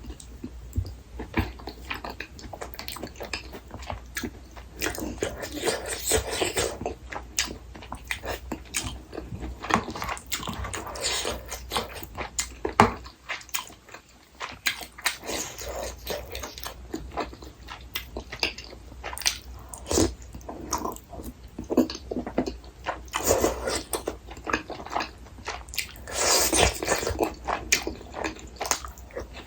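Close-miked chewing and biting of a person eating rosé tteokbokki: irregular wet mouth sounds and small clicks.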